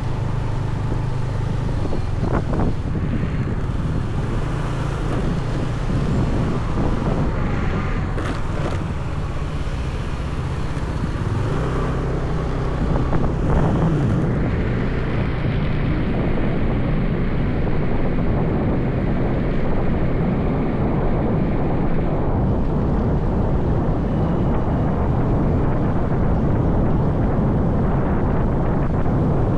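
Motorbike engine running while riding, with wind rushing over the microphone. The wind rush grows heavier about halfway through.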